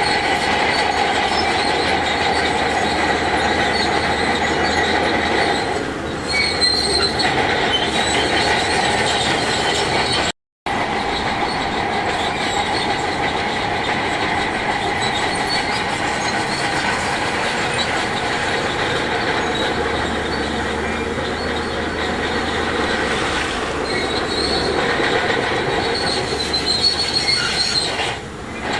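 Shantui DH17C2 crawler bulldozer's steel tracks squealing steadily over the running machinery. The sound cuts out completely for a moment about ten seconds in.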